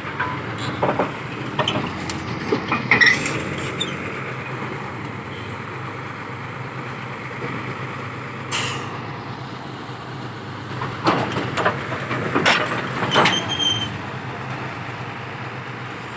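Heavy diesel engine running steadily under a piling rig loading or unloading on a lorry, with scattered metal clanks and knocks and one short hiss of air about eight and a half seconds in.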